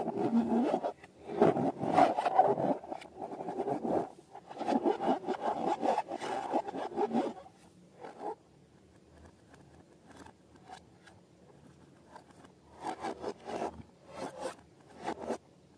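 Crackly, scraping and squishing sounds of slime being worked with balloons, coming in bursts. They stop for about five seconds in the middle, then return in shorter bursts near the end.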